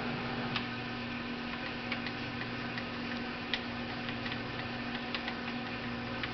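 ProtoTrak 1840 CNC lathe standing powered up with the spindle off, giving a steady electrical hum. Scattered light clicks come as its carriage handles are turned by hand.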